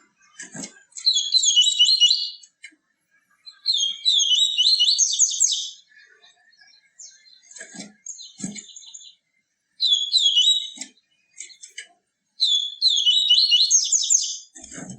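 A papa-capim seedeater singing its fast 'tui tui viviti' song: four loud phrases of quick, repeated high chirping notes, with short pauses between them and a few faint low knocks in the gaps.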